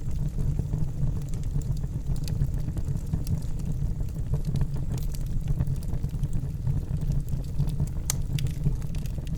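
Wood fire burning in a fireplace: a steady low roar of flames with scattered crackles and pops, one sharper pop about eight seconds in.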